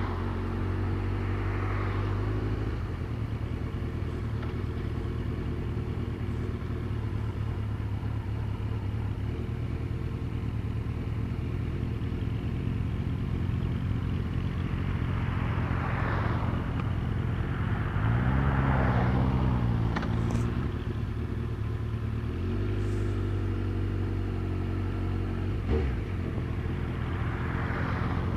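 A road vehicle's engine running steadily on the move, with wind and road noise. Its pitch changes about three seconds in, rises and falls for a few seconds about two-thirds of the way through, and steps again shortly after. Other traffic swishes past several times, and there is a single knock near the end.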